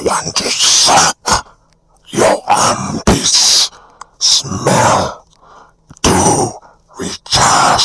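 Godzilla's voice, a cartoon monster's, making a quick run of rough, breathy grunts and coughs, about one every second.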